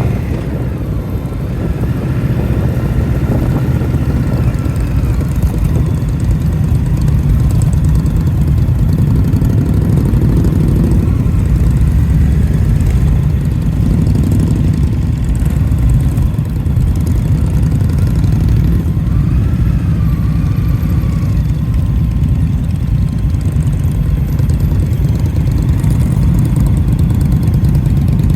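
Indian motorcycle's V-twin engine running steadily under way, with a brief rise and fall in engine pitch about twenty seconds in.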